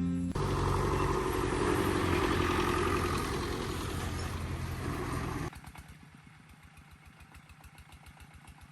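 A small engine running, loud and rough for about five seconds, then suddenly much quieter with a fast, even chugging.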